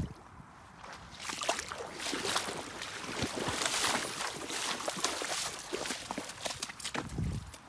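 Leaked water running and splashing across flooded ground, an uneven hiss with irregular crackling splashes.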